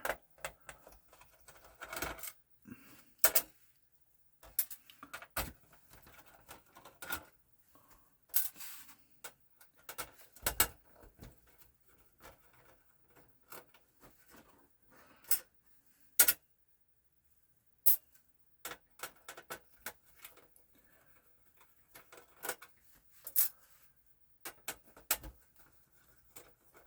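Small metal and plastic parts of a PlayStation 4 Pro being handled during a teardown: irregular sharp clicks and light metallic clinks of screws and shield plates, with a few louder knocks.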